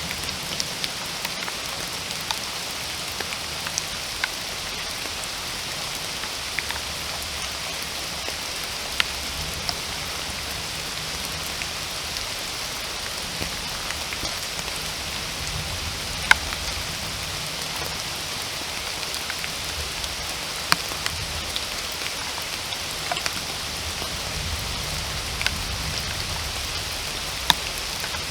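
Steady rain falling: a constant hiss with frequent sharp ticks of single drops striking close by.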